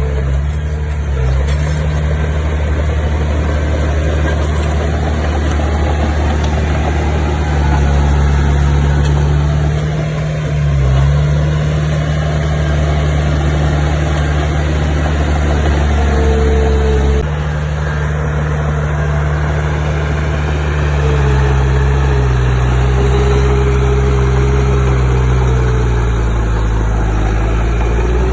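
The diesel engine of heavy earthmoving machinery runs steadily at low pitch as it works. Its note dips and rises about ten seconds in, and changes abruptly about seventeen seconds in.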